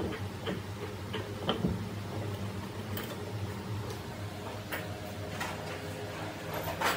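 Scattered light clicks and taps, about eight in seven seconds at uneven intervals, from hand work on metal parts, over a steady low hum; the sharpest click comes near the end.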